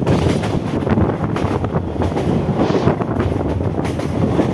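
Mumbai suburban EMU local train running at speed, heard from alongside the coach: wheels rolling on the rails with a dense, steady rattle of clicks, and wind buffeting the microphone.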